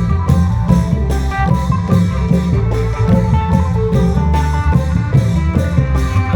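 Isan klong yao long-drum ensemble playing a lively tune: drums keep a steady beat of about two strokes a second under a melodic line in the khaen style.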